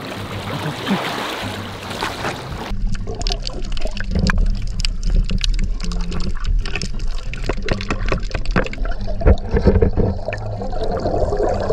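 Seawater sloshing, trickling and gurgling at the rocky shore, with many scattered knocks and clicks. About three seconds in, the sound turns abruptly duller, with a low rumble underneath.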